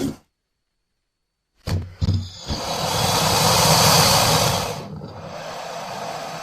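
Cartoon crocodile sound effect: a few sharp knocks, then a long breathy hiss that swells for about two seconds and drops to a quieter hiss that carries on.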